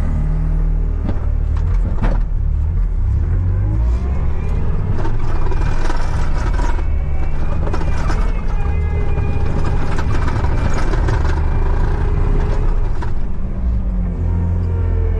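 A vehicle engine running steadily, its revs rising and falling through the middle, with a few sharp clicks and knocks.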